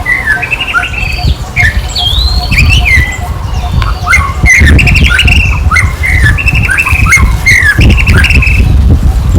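Rapid high-pitched squeaks and chirps: many short calls that slide up and down in pitch, one after another, over a steady low rumble.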